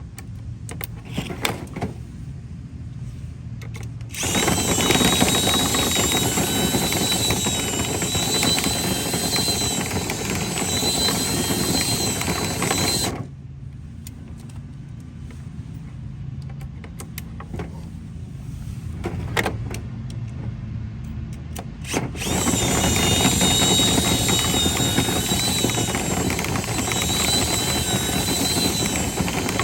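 Power drill spinning a rotary dryer-vent cleaning brush, with a steady high whine. It runs in two long spells of about nine and seven seconds, the first stopping suddenly, with quieter clattering between them.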